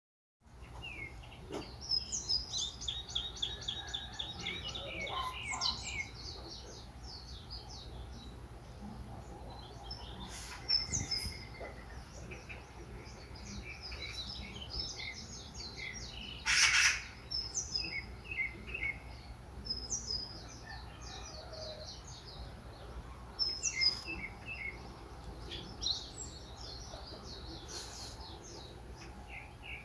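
Several small birds chirping and singing, with overlapping calls and a fast trill of repeated notes about two seconds in. One brief, louder, harsher call stands out a little after halfway, over a faint low steady rumble.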